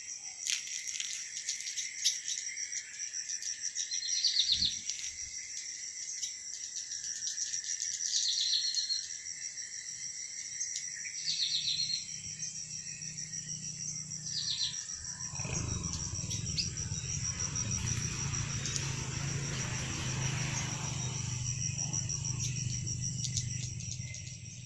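Swiftlets give four short twittering chirps over a steady high insect drone. About two-thirds of the way in, a low rumbling hum rises and carries on to near the end.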